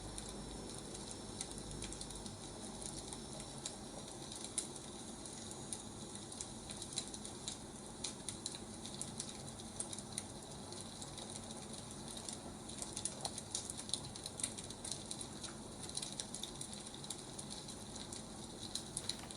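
Wood fire crackling: a steady faint hiss with irregular small pops and snaps.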